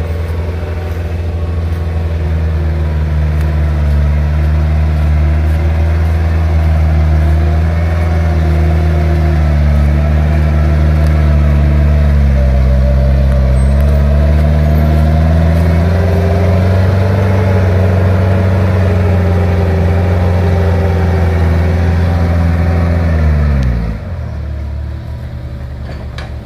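Heavy diesel engine running hard under load, its pitch wavering and dipping briefly about halfway through, then falling sharply near the end as the throttle is let off.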